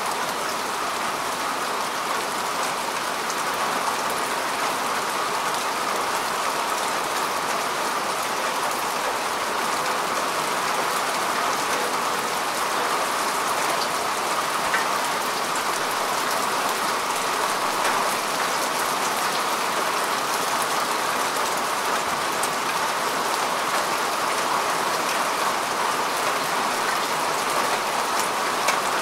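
Steady rain falling on grass and earth, a continuous even hiss with a fine patter of drops.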